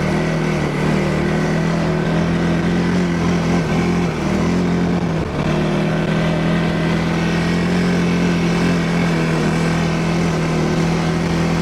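ATV engine running steadily at an even pitch, with a brief dip and wobble in pitch about four to five seconds in.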